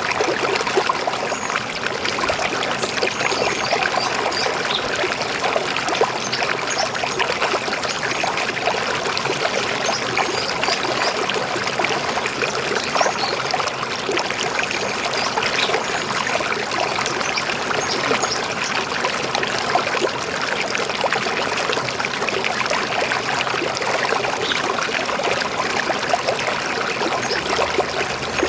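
River water flowing over rocks in a steady, even burble.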